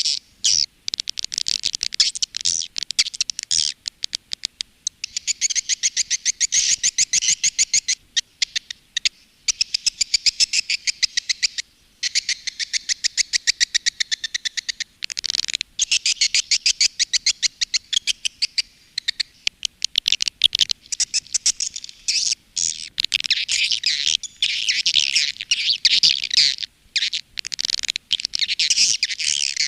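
Recorded edible-nest swiftlet calls, the lure sound that swiftlet farmers play to draw swiftlets into a nesting house. Dense, rapid, high chirping twitters run on for several seconds at a time, with a few short breaks.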